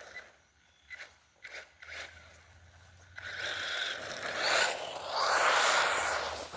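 Electric RC buggy driving: a few short scrapes and clicks, then a rush of scraping tyre and ground noise that swells for about three seconds.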